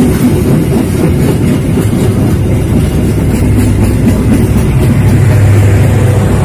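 Passenger train coaches rolling past close by: a steady rumble of steel wheels on the rails with clickety-clack over the rail joints, and a low steady hum that grows louder over the last few seconds.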